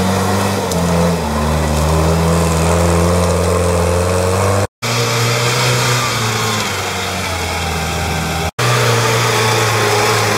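A UAZ-469 off-road vehicle's engine running at a steady pitch as it drives. The sound cuts off for an instant twice, about halfway through and near the end.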